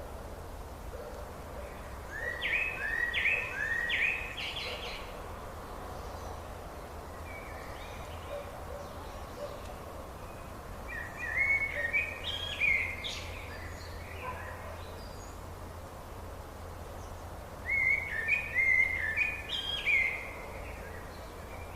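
A songbird singing three bouts of quick rising whistled notes, with pauses between them, over a steady low background hum.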